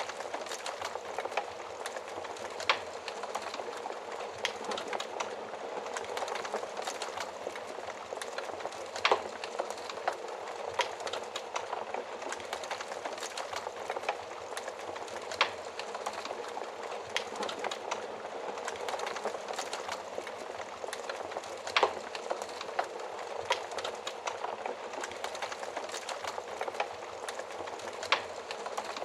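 Wood fire burning in an oven fireplace: a steady hiss of flames with frequent small crackles and a few louder pops.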